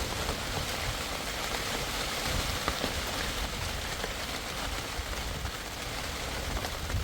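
Steady heavy rain, with scattered faint drop taps over a low, fluctuating rumble.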